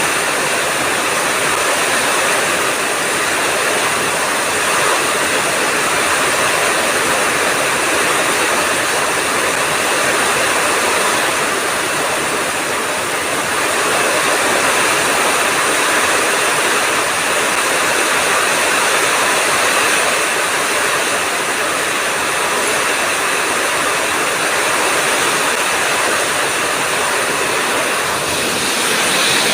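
Heavy rain pouring steadily in a thunderstorm, a dense, even hiss with no thunder claps.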